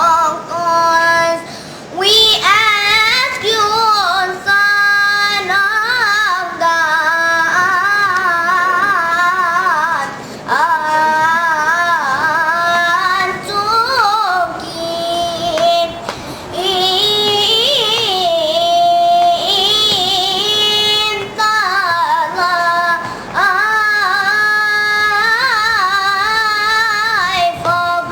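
A child singing solo in long phrases, with wavering, ornamented held notes and short breaks for breath between phrases.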